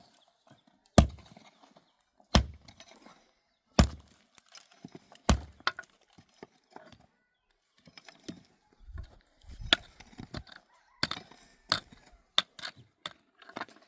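Four heavy blows about a second and a half apart, followed by lighter, irregular knocks and clinks.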